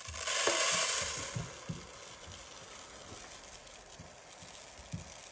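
Rice grains pouring out of a rice dispenser, a rushing hiss that is loudest in the first second or so and then tapers off, with a few soft knocks.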